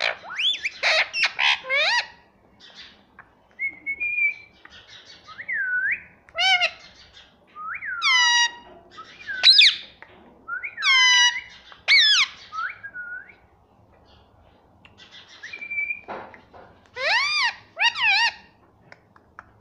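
Pet ringneck parakeet calling: a series of short whistled calls that sweep up and down in pitch, mixed with harsher squawks, with pauses between them and a quiet gap about two-thirds of the way through.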